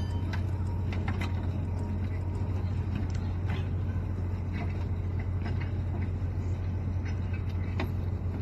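Steady low machinery drone, unchanging, with a few faint clicks over it.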